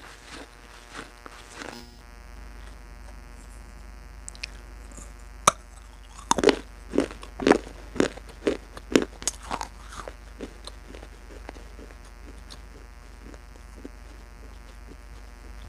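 A run of sharp crunching sounds, about two a second, a few seconds into the clip and for several seconds, over a steady low hum.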